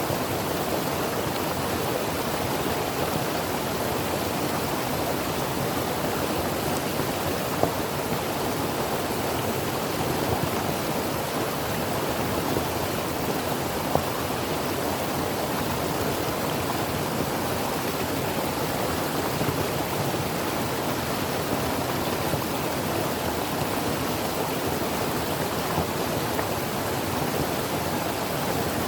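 Mountain creek flowing over rocks: a steady, even rush of water with the occasional small splash.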